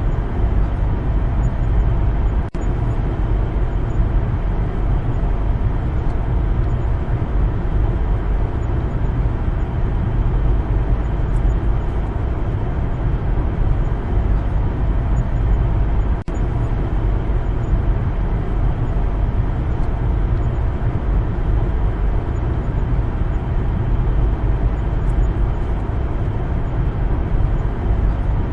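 Steady low rumble of a car driving, with tyre and road noise. The sound drops out for an instant twice.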